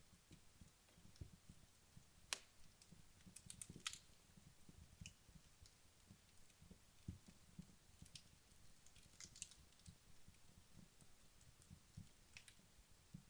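Wood fire in a fireplace crackling faintly, with scattered sharp pops and clicks from the burning logs; the loudest pop comes about two seconds in.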